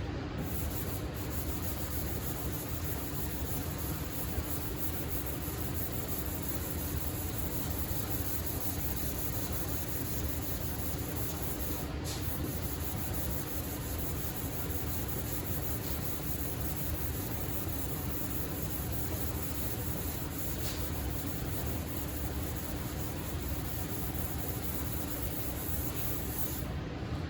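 Power sander running steadily as it sands primer surfacer on a car body panel with 400-grit paper, a continuous scrubbing hiss over a steady motor hum.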